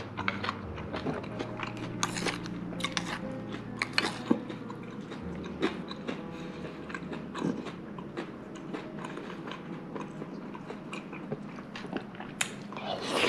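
A person chewing crisp cucumber salad (tam bak taeng), with irregular crunches and wet clicks.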